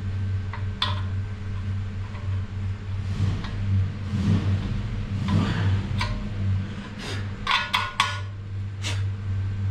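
Metal parts and hand tools clinking and clanking: a few sharp knocks, with a quick cluster of clinks about three-quarters of the way through, over a steady low hum.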